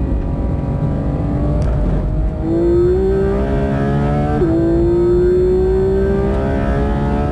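Porsche 911 GT3 RS's naturally aspirated 4.0-litre flat-six holding a steady note, then going to full throttle about two and a half seconds in. Its pitch climbs through a gear, drops with a quick upshift of the PDK gearbox a couple of seconds later, and climbs again through the next gear.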